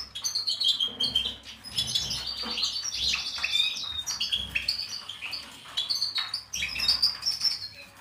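Small cage birds chirping and trilling, short high notes and fast trills coming again and again, with soft handling sounds of tape and paper on a table.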